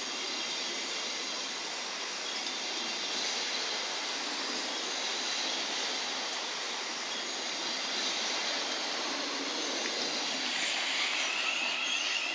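Thameslink Class 700 electric multiple unit running along the station platform: a steady rush of wheels on rail, with a high squeal coming in near the end.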